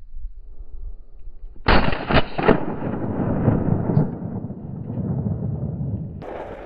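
A hunting gun fires about two seconds in: a few sharp cracks close together, then a long rolling echo that fades slowly. A second, quieter shot with its own echo follows near the end.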